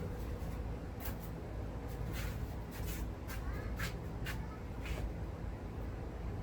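Scrap wire being handled by hand: a series of short scrapes and clicks, roughly one every half second to second, over a low steady hum.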